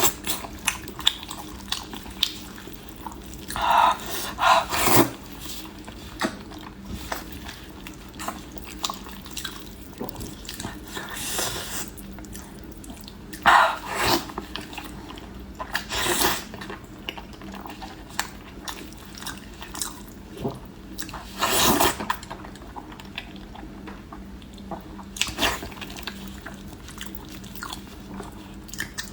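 Close-miked eating sounds of a person biting and chewing fatty pork knuckle: irregular mouth clicks and smacks, with a handful of louder bursts lasting about half a second each.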